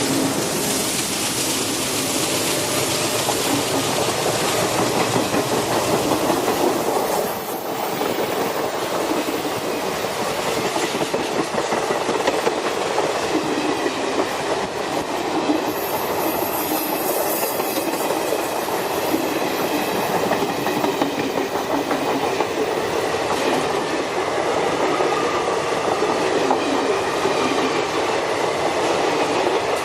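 Indian Railways train running past on a curve, its wheels clattering steadily over the rail joints, with a faint high squeal near the end.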